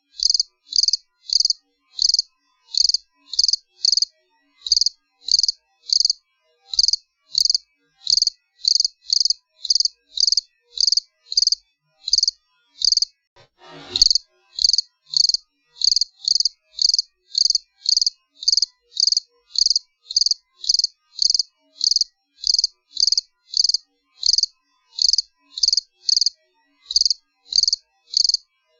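Cricket chirping: short, high-pitched chirps repeated about two to three times a second in slightly uneven groups. A brief noise cuts in about halfway through.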